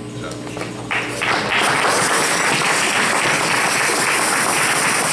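Audience applauding, starting about a second in and quickly building to a steady level.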